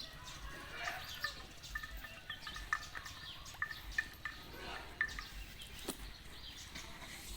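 Scattered short, high chirps and peeps from birds or poultry, irregular and several a second at times, over a faint steady outdoor background.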